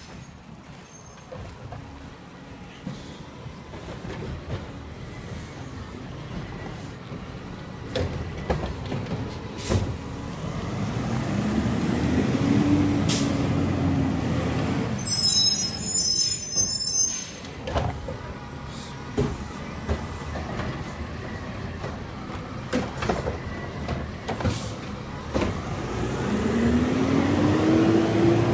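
Garbage truck's diesel engine working through a collection cycle, twice revving up and falling back, with scattered knocks and clanks. There is a brief high squeal about halfway through.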